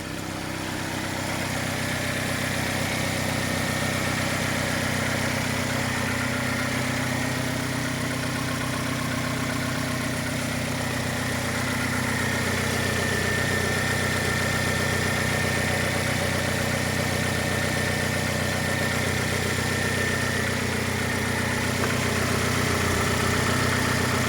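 Suzuki G16A 1.6-litre inline-four engine idling steadily and smoothly, with a faint high whine over the engine note.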